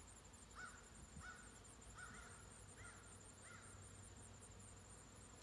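A bird calling in the distance: five short calls in a row, faint.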